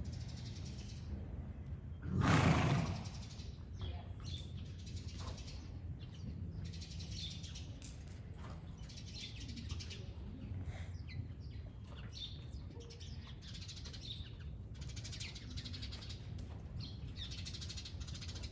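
Small birds chirping on and off. About two seconds in, a loud rush of noise lasts about a second.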